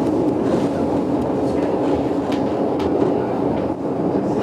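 GoldenPass Belle Époque train running along the track, heard from inside a vintage carriage: a steady rumble with scattered light clicks from the wheels and rails.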